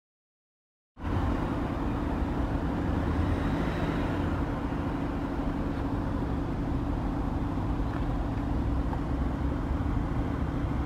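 A vehicle engine idling steadily, a constant low hum with rumble beneath, cutting in abruptly about a second in.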